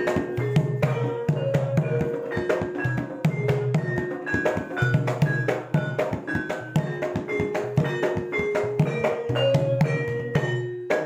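Javanese gamelan playing lively dance accompaniment: struck metal keys ring short pitched notes over steady drum strokes. The playing breaks off briefly near the end.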